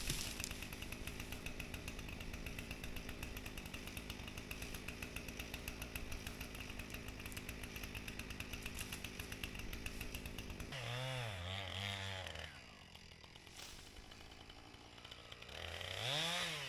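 Husqvarna 455 Rancher two-stroke chainsaw running at high speed in a cut for about ten seconds, then dropping to a quieter idle with two brief revs, one soon after and one near the end. The chain is cutting poorly: the owner finds it not sharp enough even after sharpening.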